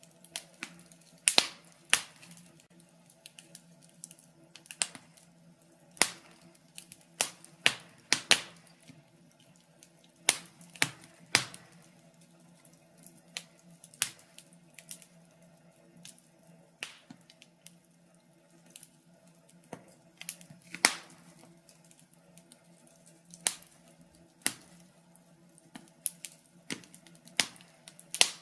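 Wood fire crackling: irregular sharp pops and snaps of varying loudness, sometimes several close together, over a faint steady low hum.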